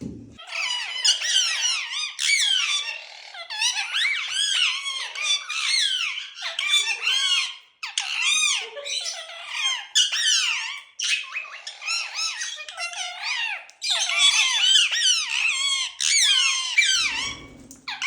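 Indian ringneck parrot chattering in a rapid, near-unbroken string of shrill calls that sweep up and down in pitch, with only brief pauses.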